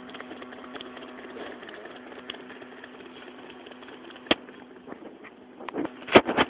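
A homemade mini CNC machine running, its small motors giving a steady hum, with a sharp click about four seconds in and several louder clicks near the end.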